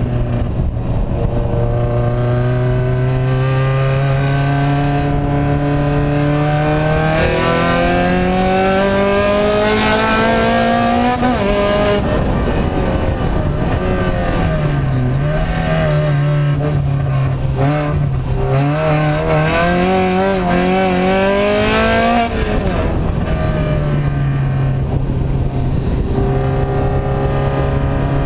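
Vehicle engine with an open, unsilenced exhaust. Its pitch climbs slowly for about ten seconds, drops sharply, wavers up and down, climbs again, then falls back to a steady low note near the end.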